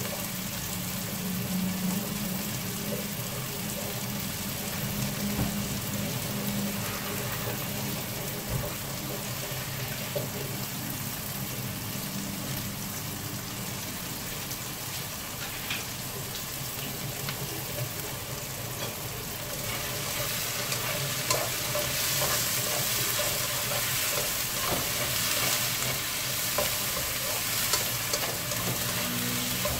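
Sliced ginger, onion and tomato sizzling in a wok, a steady hiss. About two-thirds of the way through the sizzle grows louder as the vegetables are stirred with a spatula.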